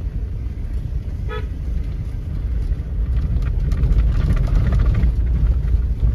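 Vehicle driving with a steady low rumble of engine and road noise, and a short horn toot about a second in.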